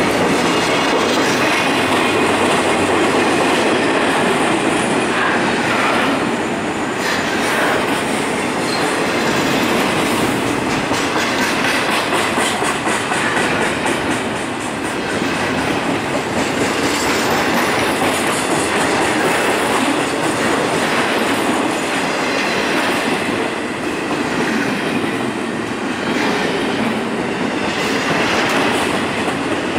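Double-stack container well cars of a CSX intermodal freight train rolling past, a steady loud rumble of steel wheels on rail with repeated clickety-clack over rail joints.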